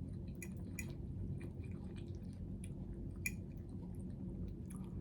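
A person chewing food with soft, wet mouth clicks and smacks, one sharper click about three seconds in, over a steady low hum.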